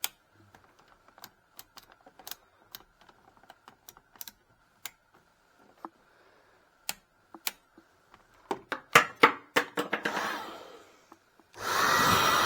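Scattered clicks and knocks from a hairdryer being handled, growing busier after about eight seconds. Near the end the hairdryer is switched on and runs with a loud steady rush of air and motor whine.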